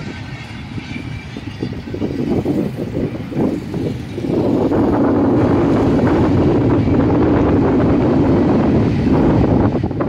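Long Indian Railways passenger train rolling past, a steady rumble of coach wheels on the rails that grows louder about four seconds in.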